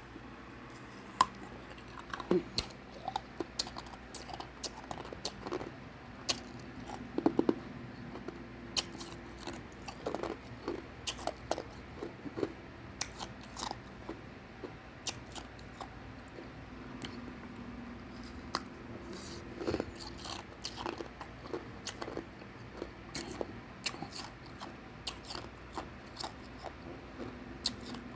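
A person chewing and biting hard ice cubes, with many sharp irregular crunches and cracks.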